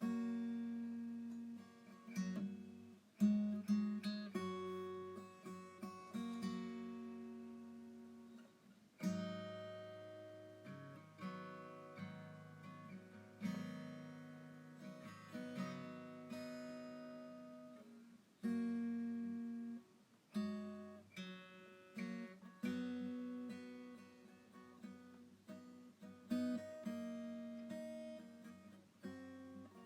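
Background music of acoustic guitar, chords strummed and left to ring, a new one struck every second or two.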